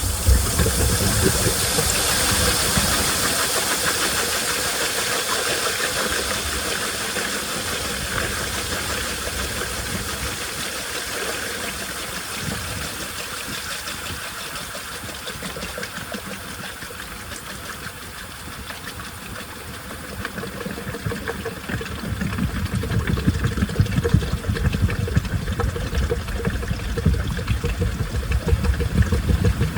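Washing machine running: a hiss of water that fades over the first twenty seconds, then the low rumble of the turning drum and its motor builds up again.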